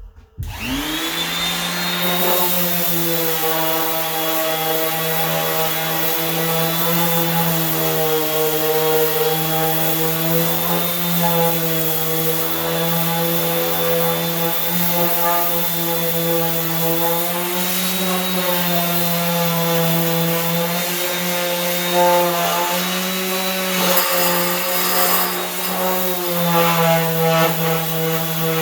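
Electric sander with 80-grit paper starting up with a rising whine, then running steadily while sanding the steel front fender of a 1978 Ford F100. Its pitch wavers a little as it is worked over the panel, with rougher patches near the end.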